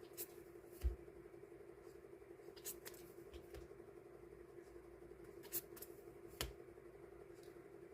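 Hands sorting die-cut stickers into small packs: a few scattered light clicks and taps, with one duller knock just under a second in, over a steady low hum.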